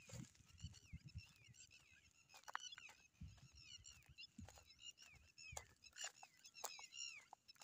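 Faint, rapid bird chirping: short, high, falling notes repeated several times a second, with scattered clicks and soft low thuds underneath.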